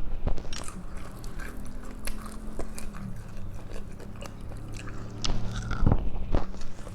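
Close-miked eating: a person biting and chewing food, with many small wet clicks and some crunch, over a faint steady low hum.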